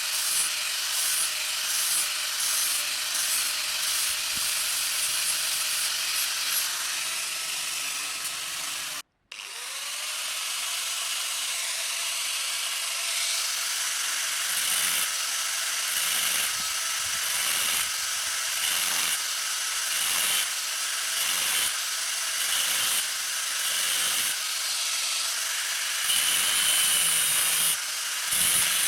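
Power tool running against metal under varying load, rising and falling about once a second. It cuts out abruptly about nine seconds in, then its motor spins back up with a rising whine and carries on working.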